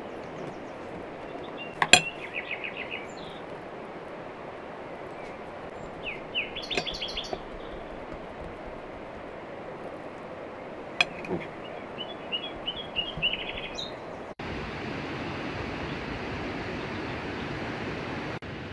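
Small birds chirping in short runs of quick repeated notes, three times, over a steady background hiss, with one sharp click about two seconds in. About fourteen seconds in the sound cuts abruptly to a steadier, louder hiss.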